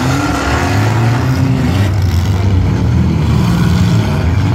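Engines of several compact demolition-derby cars running and revving up and down together.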